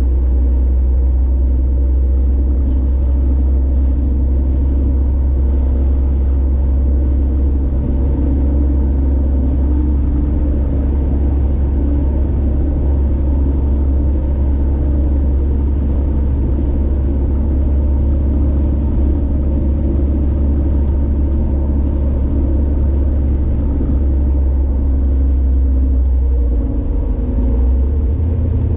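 Steady low rumble of a car being driven, with engine and road noise and no sudden events.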